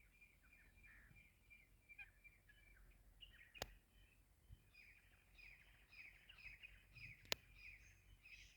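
Faint, continuous chattering of birds: many short quick chirps, thickening in the second half. Two sharp clicks, about three and a half and seven seconds in, are the loudest sounds.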